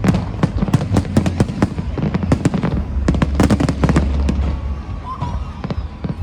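Fireworks bursting in rapid, irregular succession, many sharp bangs and crackles overlapping, over background music with a steady low bass.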